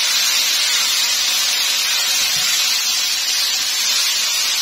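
Steady, even sizzling from a kadai of onions, garlic and ground spices frying in hot butter and oil.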